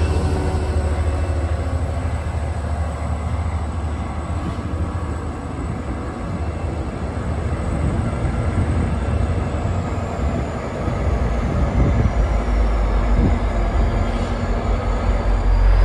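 NJ Transit train running with a steady, heavy low rumble. A faint high whine above it slowly falls in pitch about nine seconds in and starts to rise again near the end.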